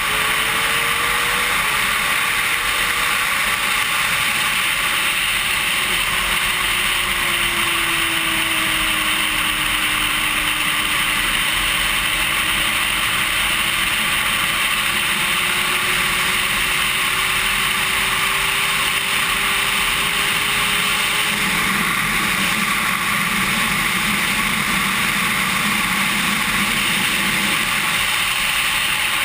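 Sport-bike engine running on track, heard faintly under a heavy, steady rush of wind on a GoPro's microphone; the engine pitch climbs in the first couple of seconds, then drifts slowly up and down.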